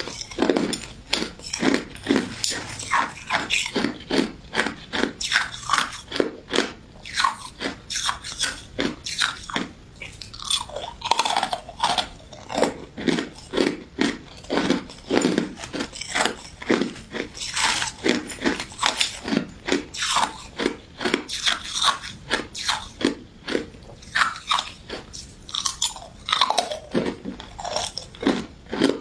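Close-miked mouth sounds of biting and chewing crunchy crystal ice dessert with jelly pieces: a steady run of crisp crunches, two or three a second.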